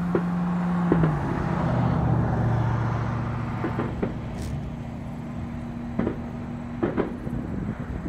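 A vehicle engine running with a steady hum that drops in pitch about a second in, with several sharp pops from fireworks going off, clustered around one second and near the end.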